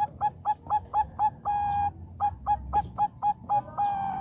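Zebra dove (Bangkok perkutut) cooing. A rapid run of short staccato notes, about four a second, ends in a longer held note, and the phrase then repeats.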